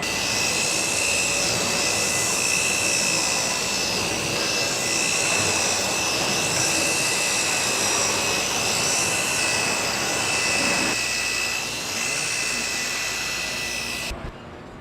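Helicopter turbine engines running: a loud, steady high whine over a rushing noise, cutting off abruptly near the end.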